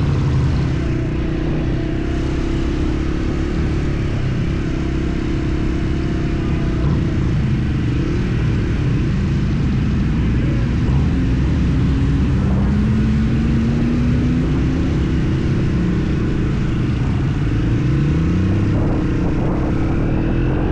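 Motorcycle engine running while riding, with its pitch rising a few times as it accelerates.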